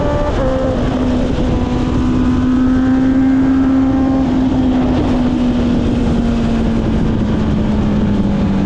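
Honda CB650R's inline-four engine with an Akrapovic exhaust running high in the revs under way. The note dips briefly right at the start, then sags slowly lower, with wind rush underneath.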